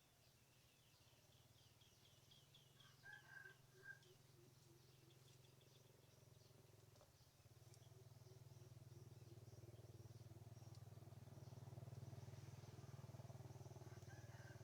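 Faint riverside ambience: small birds chirping and trilling, with a short call about three seconds in, over a low steady hum that grows louder about seven seconds in.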